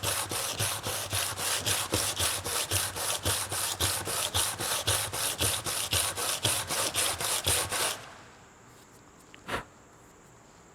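A soap mould's base piece rubbed back and forth on 150-grit abrasive paper, about four scraping strokes a second, sanding it down so it fits inside the mould. The sanding stops about eight seconds in, and one short knock follows.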